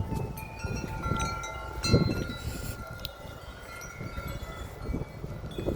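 Wind chimes ringing in gusty wind, their tones struck afresh about two and three seconds in, over a low rumble of wind on the microphone.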